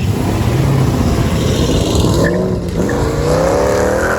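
Car engine revving hard, its pitch climbing steadily through the last second and a half.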